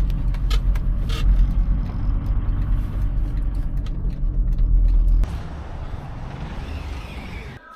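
VW T4 van driving, a steady low engine and road rumble that drops off abruptly about five seconds in to a quieter hiss.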